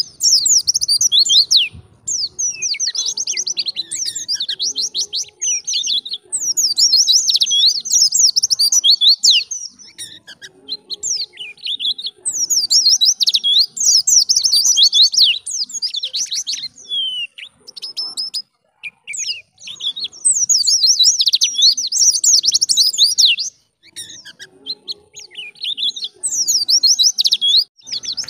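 White-eye (pleci) singing: rapid, high twittering phrases a few seconds long, separated by short pauses.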